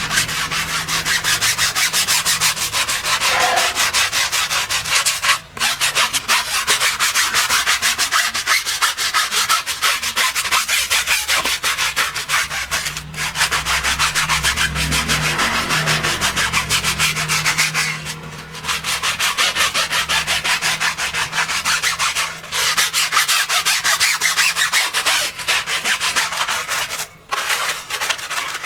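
Stiff brush scrubbing a surface in rapid, scratchy back-and-forth strokes, with a few brief pauses.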